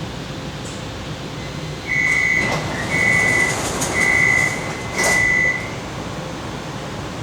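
Metro train door-closing warning: four high beeps about a second apart, each about half a second long, with a couple of sharp clicks from the doors, over the steady hum of the car's ventilation.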